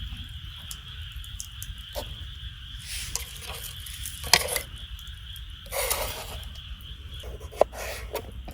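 Wood campfire crackling, with sharp pops about four seconds in and again near the end, over a steady high-pitched drone.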